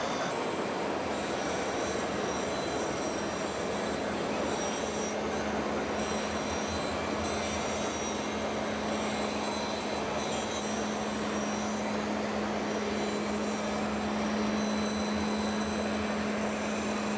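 Remote-control toy tractor's small electric motor and gearbox running steadily, with a steady low hum setting in about two seconds in.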